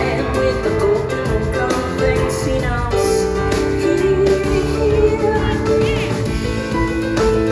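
Live rock performance: piano and band playing, with a woman singing over them.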